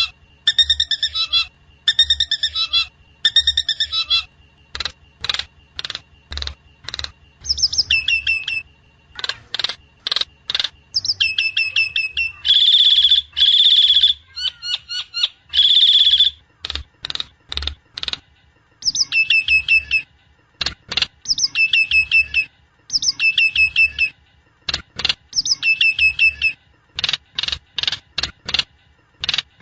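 Nias hill myna calling in a loud, repeating series. Sharp short notes alternate with whistled phrases, and there are a few longer harsh calls about halfway through.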